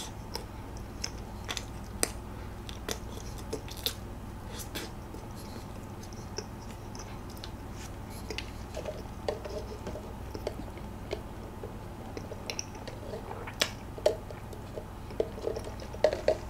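Close-miked chewing of a soft baked donut filled with whipped cream: scattered wet mouth clicks and smacks, busier near the end, over a steady low hum.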